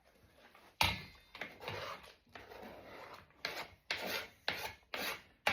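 Seven or eight short rough scraping strokes, unevenly spaced, as something is scraped or rubbed by hand.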